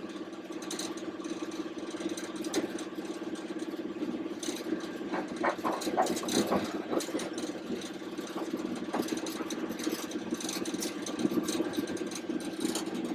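Class 31 diesel-electric locomotive's engine running steadily at idle with the power controller shut off, heard from the cab, with scattered rattles and knocks over the engine hum.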